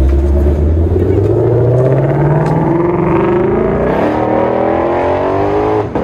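A car engine accelerating hard as the car pulls away. Its pitch climbs for about four seconds, drops with an upshift, climbs again, and breaks briefly with another shift near the end.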